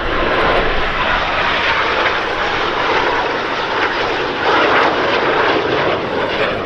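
Jet noise from a pair of BAC Strikemaster light attack jets with Rolls-Royce Viper turbojets flying a display: a steady broad rush that swells briefly about four and a half seconds in.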